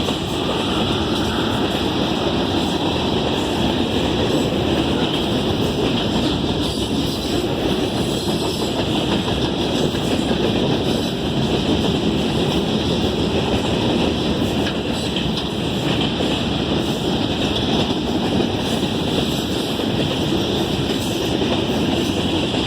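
Freight cars of a manifest train rolling past with a steady rumble of wheels on rail.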